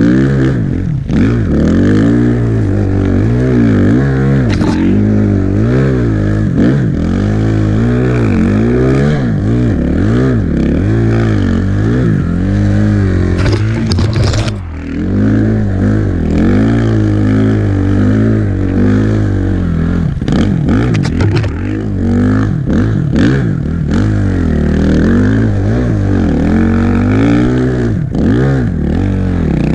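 Suzuki RM-Z450's single-cylinder four-stroke engine revving hard, its pitch rising and falling again and again as the dirt bike is ridden through deep snow, with a brief drop in revs about halfway through.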